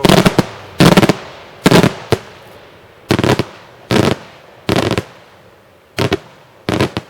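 Daytime fireworks going off in a fast series: about eight loud bangs, each a quick cluster of cracking reports with a short echoing tail, coming under a second apart with a longer pause in the middle.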